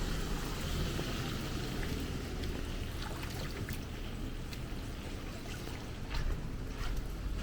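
Rain and running water in a town street: a steady wash of water with many small scattered drips and ticks.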